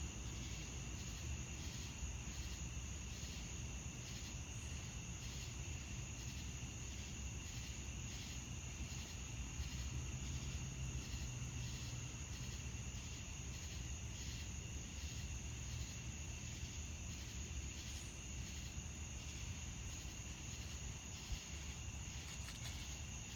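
A chorus of night insects such as crickets, keeping up a steady high pulsing, about three pulses a second, over a low steady background rumble.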